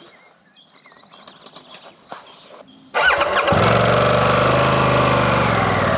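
A Harley-Davidson Pan America's V-twin engine starts about three seconds in, rising briefly before settling into a steady idle, after a few faint high chirps.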